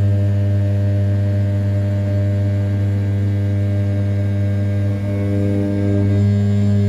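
500 W brushless spindle of an RZ420 desktop CNC mill turning at 6000 rpm while rough-milling the outer profile of an A7075 aluminium part: a steady low tone with evenly spaced overtones. The upper overtones shift about five seconds in as the cutting load changes.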